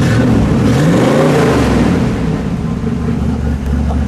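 1982 Pontiac Trans Am's factory 305 V8 revved once from idle. Engine speed climbs for about a second, then drops back to a steady idle.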